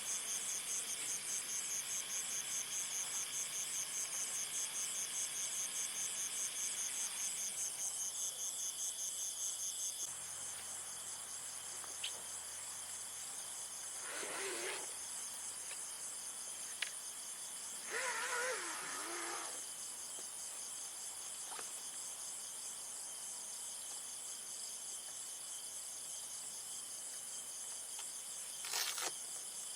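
A steady, high, rapidly pulsing chorus of insects, with a few short calls that bend in pitch, one a warbling call about two-thirds of the way through.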